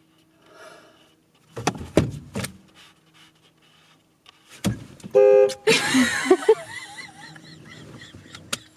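A short car horn honk about five seconds in, the loudest sound here, followed by a noisy stretch with wavering tones that fades out. A few knocks come before it, over a faint steady hum.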